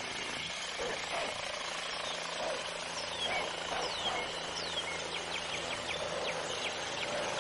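Outdoor nature ambience: a steady background hiss with scattered short, high bird chirps, several falling in pitch, in the middle and later part.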